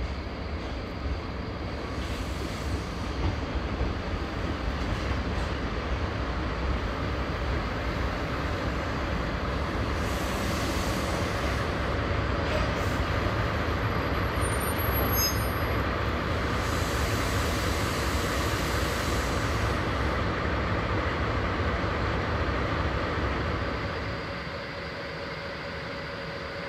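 A JR Freight DD51 diesel-hydraulic locomotive running under power as it hauls a container freight train past, its engines and the wagons' wheels on the rails making a steady low rumble. The rumble builds to its loudest around the middle, then drops to a quieter level near the end.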